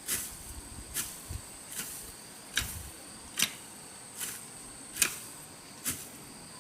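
Hand tool chopping into grass and soil in a steady rhythm, about one sharp strike every 0.8 seconds, eight strikes in all, as weeds are cleared by hand.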